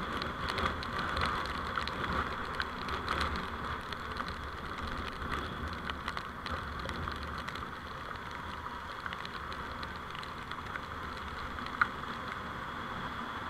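Steady road and vehicle running noise picked up by a dashcam while driving, with scattered light ticks and one sharp click about twelve seconds in.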